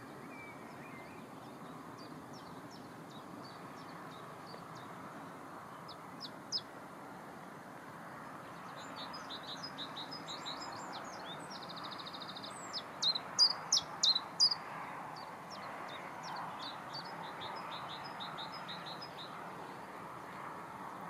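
Songbirds singing: scattered high chirps and short phrases, with a brief fast trill about twelve seconds in and a run of louder chirps just after, over a steady background hiss.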